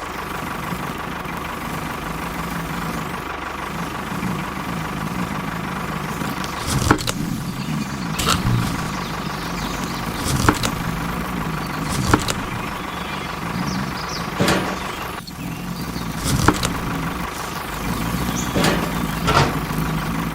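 Mini tractor's motor running steadily, with sharp clicks or knocks every couple of seconds in the second half.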